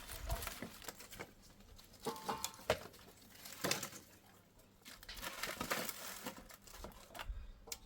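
Irregular rustling and crinkling with scattered light clicks, as of something being handled.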